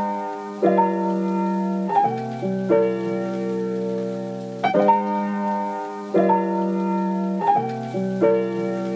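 Sped-up pop song's instrumental break: a piano-like keyboard playing held chords that change every one to two seconds, with no vocals or drums.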